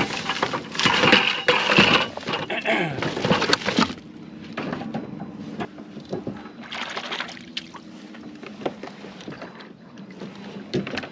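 Crab-pot gear being handled aboard a plastic kayak: loud rustling, rattling and knocking for about the first four seconds, then quieter handling noises with water sloshing against the hull.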